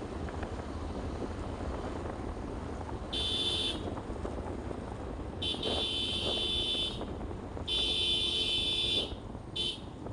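Wind and road rumble from a motorcycle moving at speed, with a high-pitched vehicle horn sounded four times: a short blast, two longer ones of over a second each, and a quick beep near the end.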